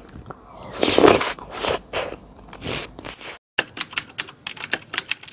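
A few louder scratchy noises, then, a little past halfway, quick keyboard-typing clicks at about seven a second, like a typing sound effect.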